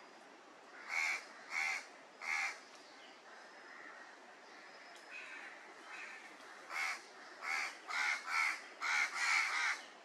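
Harsh bird calls: three spaced calls about a second in, then a quicker run of about seven calls in the last three seconds, over faint outdoor background.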